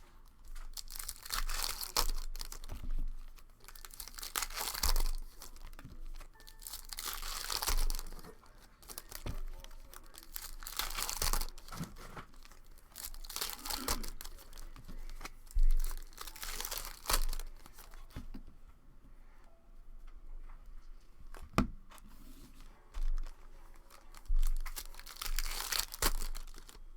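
Plastic wrappers of Prizm basketball trading card packs being torn open and crinkled by hand, in irregular bursts with a few sharp clicks between them.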